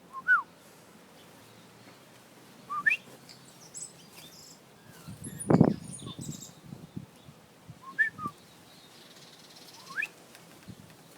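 Bird calls: short whistled notes that slide up or down, repeating every few seconds, with faint high chirps between them. One loud thump about halfway through.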